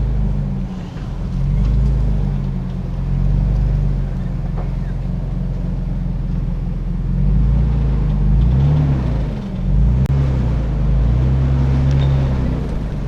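Nissan Xterra's engine running at low revs as the truck is driven off road, a steady low drone. The revs rise and fall briefly about eight to nine seconds in.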